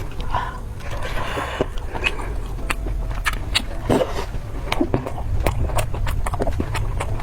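A person chewing and crunching food close to the microphone: many sharp, irregular crunches over a low steady hum.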